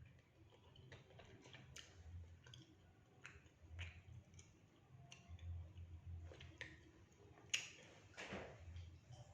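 Faint, scattered mouth clicks and smacks of someone eating, with a few small sharper clicks such as a utensil touching a plate.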